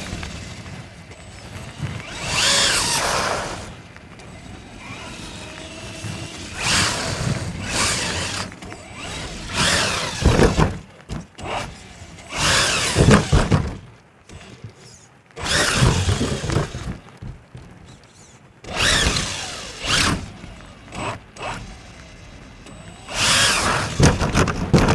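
Traxxas Raptor R VXL RC truck's brushless electric motor whining in repeated bursts of throttle, about eight times, the pitch rising and falling with each run.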